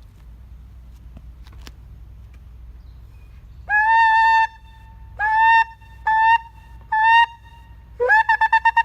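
Ram's horn shofar blown in blasts that each scoop up into one steady pitch, starting about three and a half seconds in: one longer blast, then three short ones. Near the end a blast breaks into a rapid staccato of about eight notes a second. Before the horn there is only a low rumble.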